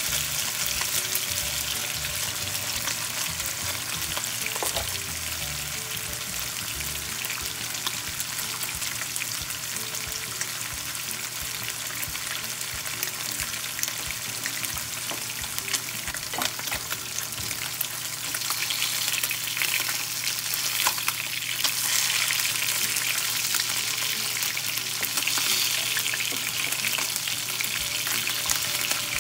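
Salmon fillets frying in hot oil in a nonstick pan: a steady sizzle that grows louder about two-thirds of the way through, with a few light clicks.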